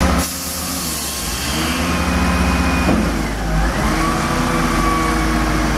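An engine running steadily, its pitch dipping about three seconds in and then rising again as it is revved.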